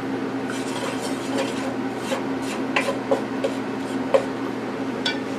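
A spoon scraping and stirring a flour-and-fat roux in a frying pan, in short irregular strokes over a steady low hum.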